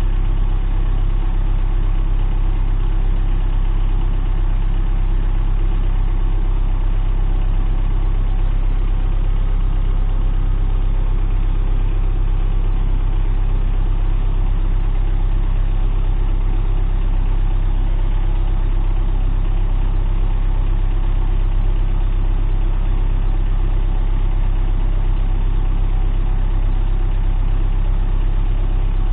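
Diesel engine of an MTZ-892 (Belarus) tractor idling steadily.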